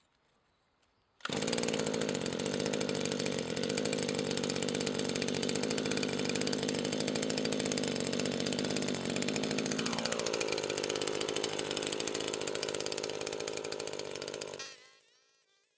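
Brush cutter's 25.4 cc single-cylinder two-stroke engine (WEIMALL WM1E34F) starts abruptly about a second in and runs at speed. About ten seconds in its revs fall to a lower, steady note, and near the end it stops quickly.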